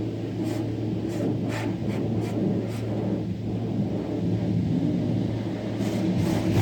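Steady low machine hum over a rumbling noise, with a scatter of short ticks, several in the first three seconds and two more near the end.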